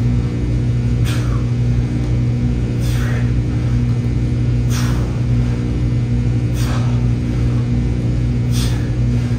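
Loud steady machine hum with several fixed tones, likely from fans or air handling. Over it, five short hissing exhales come about every two seconds, a person breathing out on each rep of a set of split squats.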